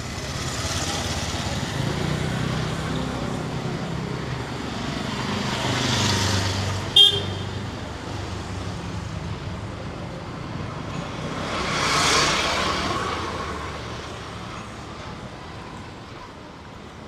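Street traffic: vehicles passing, two of them swelling up and fading away about six and twelve seconds in, with a short, sharp horn toot about seven seconds in.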